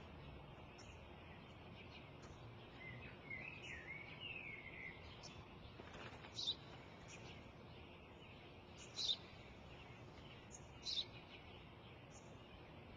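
Birds chirping faintly over a low outdoor hiss: a short warbling phrase about three seconds in, then three short, high, falling chirps a couple of seconds apart.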